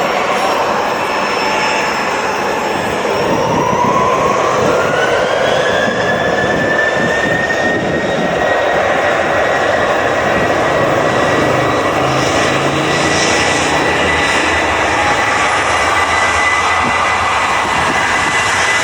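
Boeing 737's turbofan engines spooling up: a high whine rises in pitch for a few seconds, then holds as a steady loud scream over the rushing roar of the jets.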